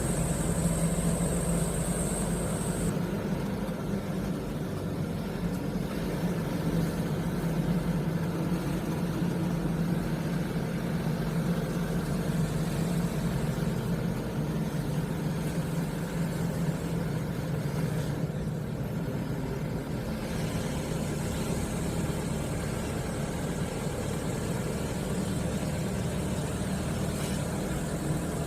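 Mitsubishi Canter light truck's diesel engine running steadily on the road, a low, even hum. A faint high whine cuts off about three seconds in.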